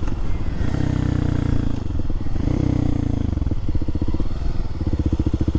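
Kawasaki KLX300SM supermoto's single-cylinder engine running under way, easing off twice. From about the middle on it slows to a low, lumpy idle where the separate firing pulses can be heard.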